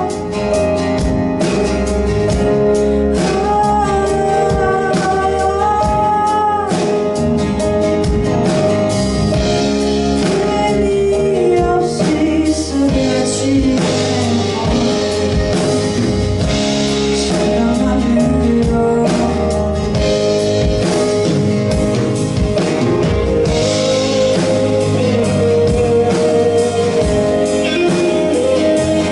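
Live pop song: a singer's voice carrying a melody over guitar and drum kit, with the band playing steadily throughout.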